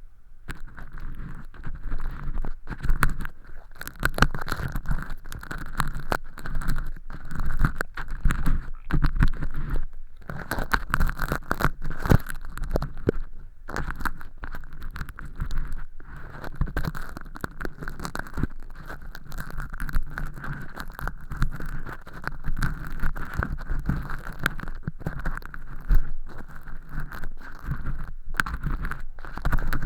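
An earpick scraping inside a silicone ear model's canal, peeling off thin, flaky fake earwax: a dense, continuous run of scratchy clicks, crackles and rustles.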